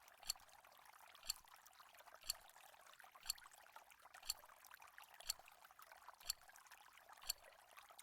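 Countdown-timer ticking, a sharp faint tick about once a second, over a faint steady hiss.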